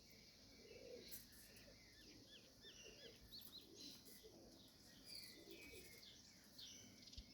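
Faint bird sounds: small birds chirping in short, quick arched notes again and again, with soft low cooing of pigeons underneath.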